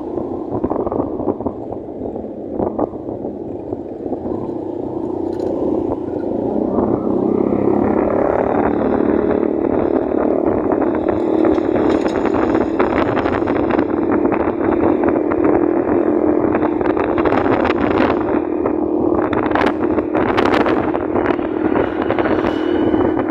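Motorcycle being ridden on the road: its engine and the rush of wind and road noise, growing louder about seven seconds in.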